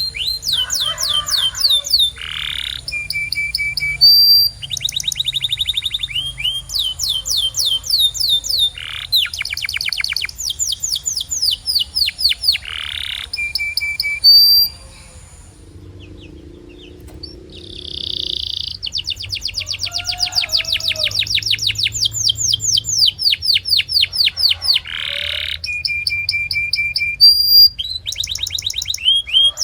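Domestic canary singing: fast trills of rapidly repeated high notes, broken by a few short held whistles, with a break of about three seconds about halfway through.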